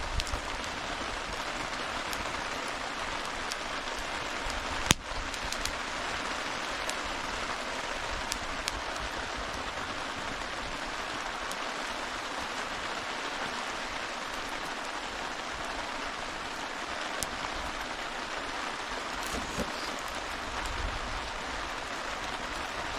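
Steady rain with a campfire crackling, scattered sharp pops over the hiss and one louder pop about five seconds in.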